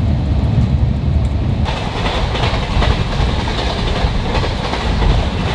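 Passenger train running at speed, heard from its own coach: a steady low rumble of wheels on the track, with a louder rushing hiss coming in just under two seconds in.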